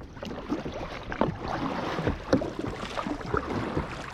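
A kayak being paddled out on calm sea: irregular small splashes and drips of water around the paddle and hull.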